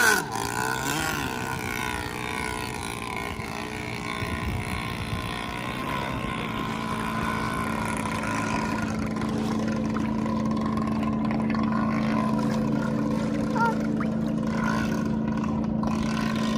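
A boat motor running on the water: a quick swell and fall in pitch at the start, then a steady drone that grows stronger about halfway through.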